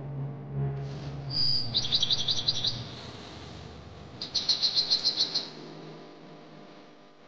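A small bird chirping: one short high note, then two quick runs of eight or nine rapid high chirps, a couple of seconds apart.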